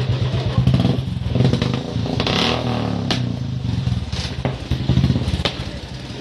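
Motorcycle engine running with rapid exhaust pulses, its pitch shifting about two to three seconds in, punctuated by several sharp exhaust pops from misfiring.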